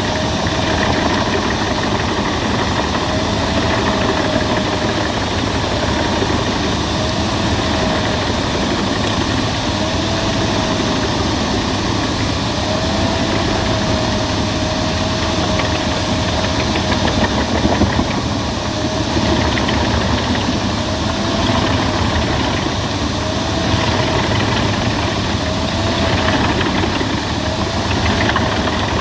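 Albach Diamant 2000 wood chipper running loudly and steadily while chipping branches. A tone in its sound sags and recovers every couple of seconds.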